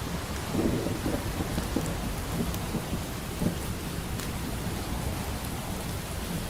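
Steady rain with a low rumble of distant thunder, and a few faint crackles from a wood fire.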